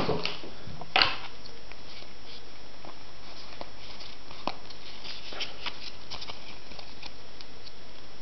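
Pokémon trading cards being handled and slid through the hands: a sharp rustle about a second in, then light scattered clicks and ticks of cards over a steady hiss.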